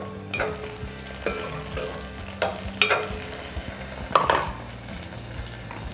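Meatballs frying in oil with garlic, curry leaves and pandan leaves in a metal wok, sizzling while a utensil stirs them and scrapes the pan several times.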